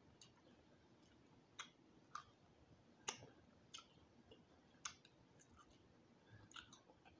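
Faint, scattered clicks and crunches, roughly one a second, of someone chewing crispy roasted quail and picking its small bones apart with the fingers.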